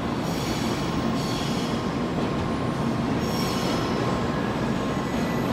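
Shinkansen N700-series train rolling out of the station, a steady running rumble with high-pitched wheel squeal swelling and fading three times.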